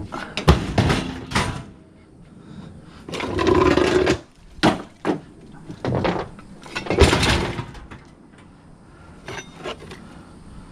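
Scrap metal being handled and piled up: a run of clanks and knocks with scraping in between, fainter in the last few seconds.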